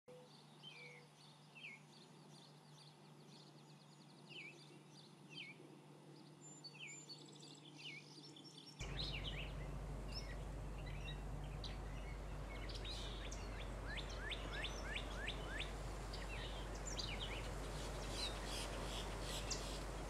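Songbirds singing: at first one bird repeats a short falling chirp about once a second. About nine seconds in, the sound cuts to a busier mix of varied chirps and squeaky notes, including a quick run of falling notes, over a louder background hiss and a steady low hum.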